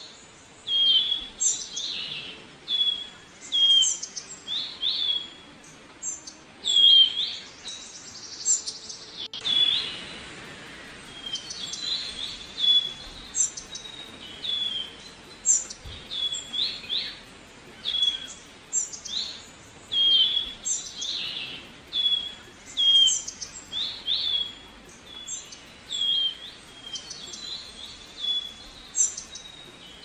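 Small songbirds singing: short, high chirping notes repeated about once or twice a second, over a faint steady background hiss that grows slightly louder about nine seconds in.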